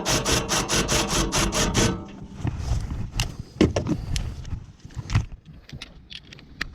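A tool driving a fastener on a generator enclosure: a quick, even run of clicks, about six a second, for about two seconds. After it come scattered clicks and knocks of tools and parts being handled.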